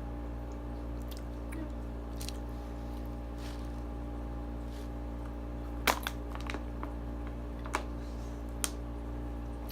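Eating sounds close to the microphone: scattered crunchy chewing clicks, the loudest about six seconds in, over a steady electrical hum.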